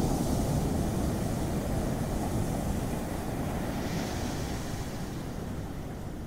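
Ocean surf: a steady low rush of breaking waves, with a brighter wash about four seconds in, slowly easing off.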